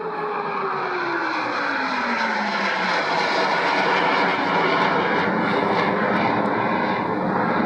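Jet aircraft flying past: a loud jet roar whose pitch falls steadily over the first few seconds as it goes by, then a sustained rushing roar.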